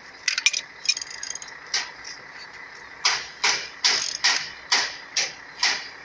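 Ratcheting clicks from the sleeve puller being cranked to draw a cylinder liner out of the engine block: a few scattered clicks at first, then from about three seconds in a regular run of strokes about two and a half a second.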